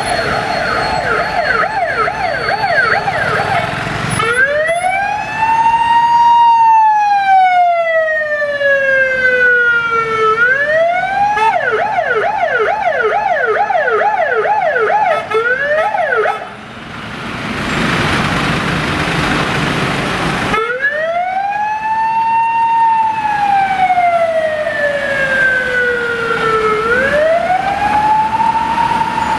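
Police car sirens switching between a fast yelp, about two to three sweeps a second, and a slow rising and falling wail. Partway through the siren gives way for a few seconds to plain road noise before the wail comes back.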